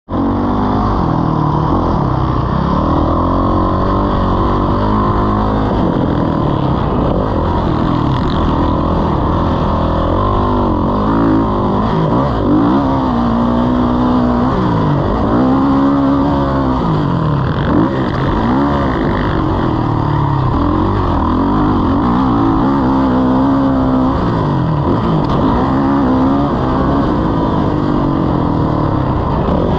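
Motocross bike engine running hard, its pitch repeatedly climbing and dropping as the throttle is opened and shut.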